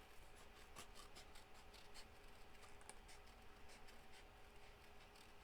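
Faint, short snips of small scissors cutting card by hand, many small cuts in close succession.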